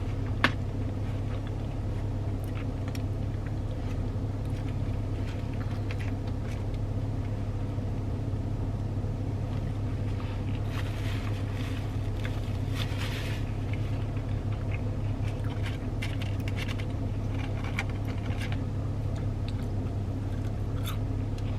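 Steady low hum of a car engine idling, heard from inside the cabin, with scattered small clicks and rustles of eating, busiest about halfway through.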